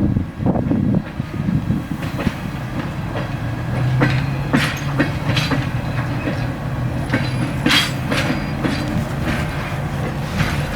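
EMD GP7 diesel locomotive running as it slowly moves cars, with a steady low engine drone that grows stronger about four seconds in. Scattered irregular clicks and clanks come from the wheels and running gear on the rails.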